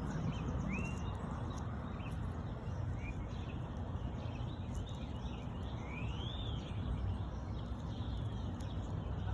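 Outdoor background with a few scattered bird chirps: a short rising call about a second in and a call that rises and falls around six seconds in, over a steady low background rumble.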